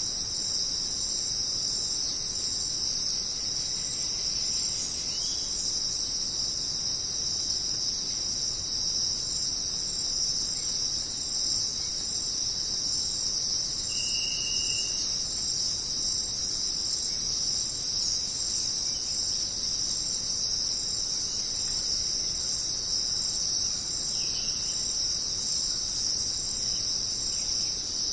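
Dense, steady chorus of jungle insects, a continuous high-pitched shrilling that never lets up. About halfway through, a short single tone sounds briefly over it.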